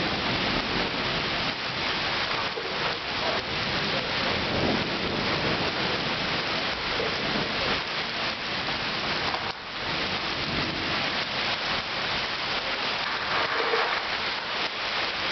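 Heavy rain pouring down and splashing on surfaces: a dense, steady hiss that dips briefly about two-thirds of the way through.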